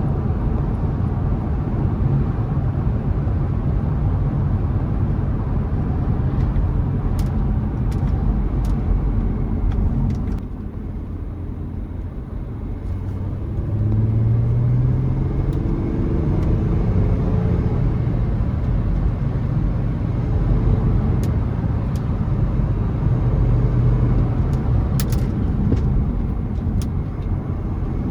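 Audi A5 50 TDI's V6 diesel engine running under way with steady road and tyre rumble. About ten seconds in the sound drops off briefly, then the engine note rises as the car accelerates again, with a few faint ticks.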